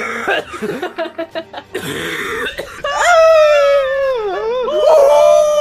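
A person coughing and spluttering for about two and a half seconds, then a long, loud, high-pitched wailing cry that starts about three seconds in and wavers and dips in pitch.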